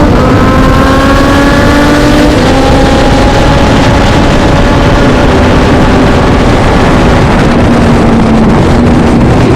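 Racing motorcycle engine running hard under load, its pitch climbing and then dropping at a gear change about two seconds in, sagging slowly afterwards and climbing again near the end, with loud rushing noise throughout.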